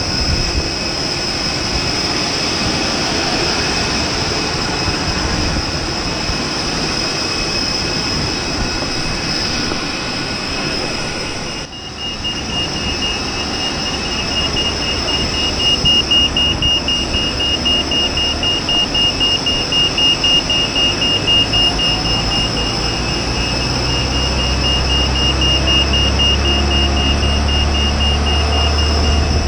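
Jet airliner noise on the apron: steady high-pitched whines over a rumble, with a brief dip a little before the middle. After that a deep hum builds in steps and the loudness pulses for several seconds.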